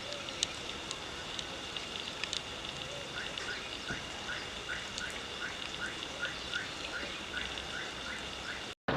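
Wild bird calls over a steady high-pitched drone. From about three seconds in, a bird repeats a short rising note about three times a second. The sound cuts off abruptly just before the end.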